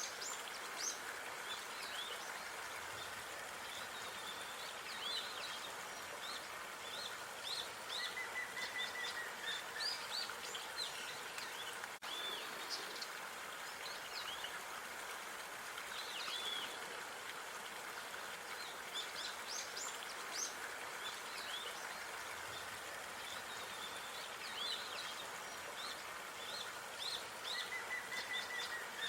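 Outdoor park ambience: small birds chirping and twittering in short bursts, over a steady background hiss, with a drawn-out whistled note twice.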